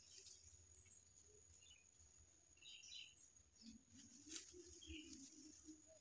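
Near silence with a few faint bird chirps over a steady high-pitched whine, and a couple of brief rustles or clicks.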